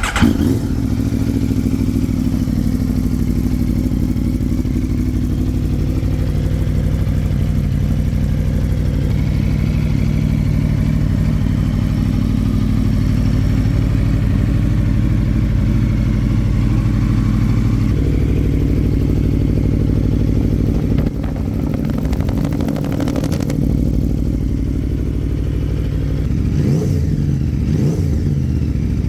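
Aprilia RSV4 V4 engine, just started, idling steadily through an Akrapovic full titanium exhaust system. The idle settles a little about two-thirds of the way in, and near the end the throttle is blipped a few times, the pitch rising and falling.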